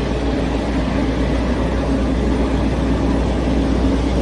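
Semi-trailer truck's engine running steadily, a constant low drone with an even hum over it.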